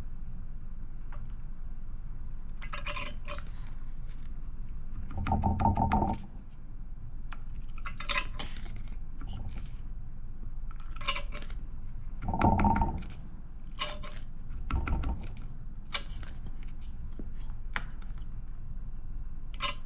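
Scattered small clinks and knocks of hands and tools working on an electric board's tire while red tire sealant is put in. There are two louder short bursts of noise, about five and a half and twelve and a half seconds in.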